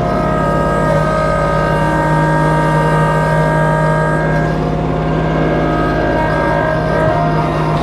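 Kubota B2650 compact tractor's three-cylinder diesel running steadily under work, with a whine of several steady tones over the engine.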